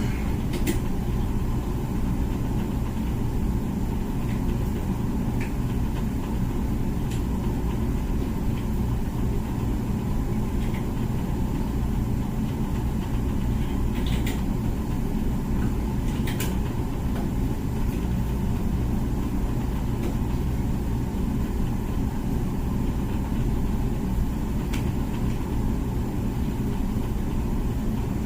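Comfee dishwasher running its cycle: a steady low rumble with a few faint clicks now and then.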